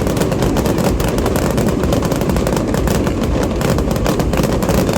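Aerial fireworks display, a dense, continuous barrage of rapid overlapping bangs.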